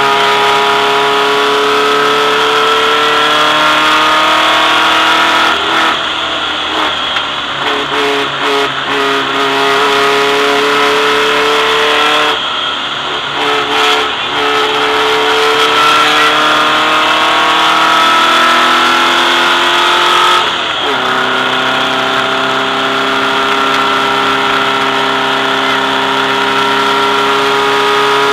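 Volkswagen race car's engine pulling hard at speed, its pitch climbing slowly in gear. The note breaks off briefly twice, and about three quarters of the way through the pitch drops sharply on a gear change before it steadies again.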